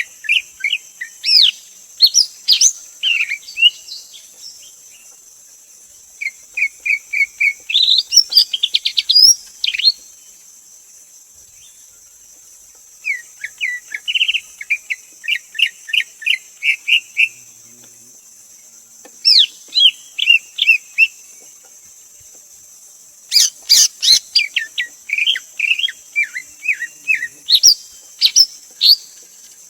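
Greater green leafbird singing: phrases of rapid, sweet chirping notes mixed with sharp rising whistles, each phrase a few seconds long with short pauses between.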